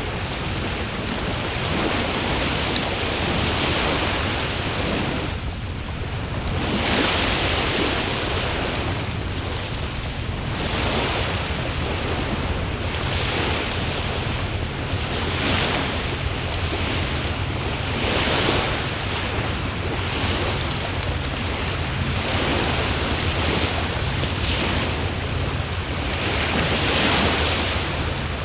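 Wood fire burning in a Coleman Fire Disc fire pit: a steady rushing noise that swells and eases every couple of seconds, with a few faint crackles about two-thirds of the way in. A steady high-pitched tone runs under it.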